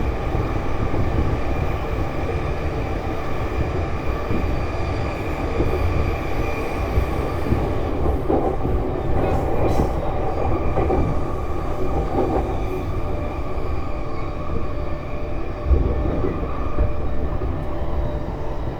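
JR East E233 series electric train running, heard from inside the car: a steady rumble of wheels on rail with a steady whine held at one pitch, a little busier for a few seconds partway through.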